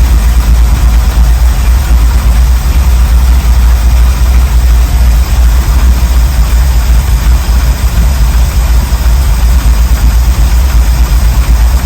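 A 1979 Ford Bronco's 351M V8 idling steadily with a loud, low rumble.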